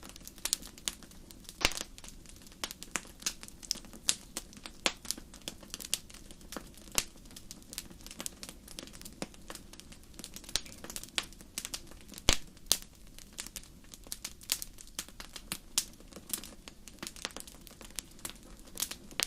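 Wood fire crackling: frequent irregular sharp pops and snaps over a steady low rumble, with two louder pops, about two seconds in and about twelve seconds in.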